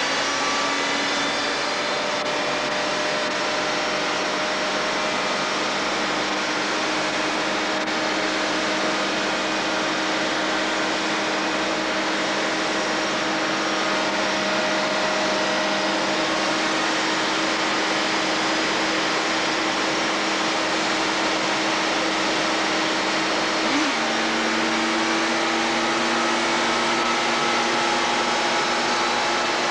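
Kawasaki two-stroke triple motorcycle engine running hard and steady on a rolling-road dynamometer, its pitch creeping slowly upward as it is held under load. About two-thirds of the way through there is a brief blip, after which it holds a little higher.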